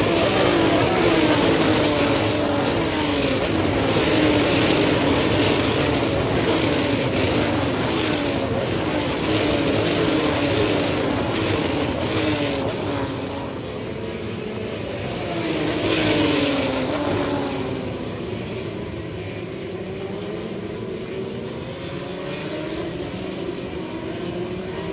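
Racing cars passing on a circuit, their engines rising in pitch and dropping back again and again as they shift up through the gears. The sound is busiest in the first two-thirds, swells once more about sixteen seconds in, then fades to a lower drone.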